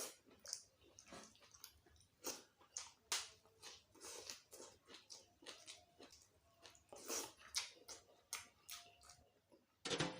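Faint, irregular chewing and mouth sounds of a person eating close to the microphone.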